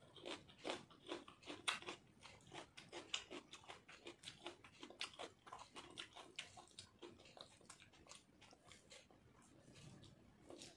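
Faint close-up eating sounds: a person chewing mouthfuls of rice and dal eaten by hand, with many small irregular mouth clicks, several a second.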